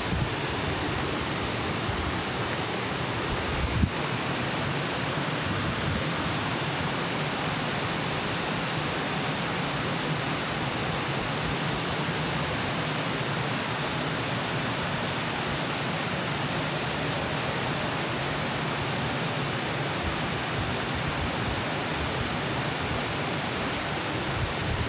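Steady rushing of a waterfall, an even roar of falling water with no change, and one brief thump about four seconds in.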